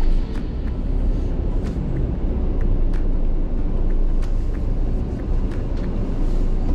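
Motorhome engine and road rumble heard from inside the cab as it moves slowly, with scattered sharp ticks over the top.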